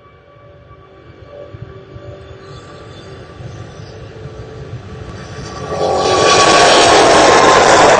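Airbus A380's four jet engines at takeoff power, building from a distant rumble to a loud roar about six seconds in as the aircraft passes close. A steady high whine runs through the roar.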